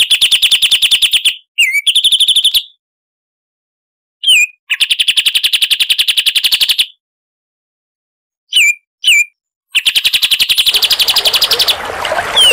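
A songbird singing rapid, fast-pulsed trills in bursts of about two seconds, separated by short silences, with brief downslurred call notes between the bursts; the last trill has a rising background hiss under it. It is a burst-style 'tembakan' song of the kind used as a training recording for competition songbirds.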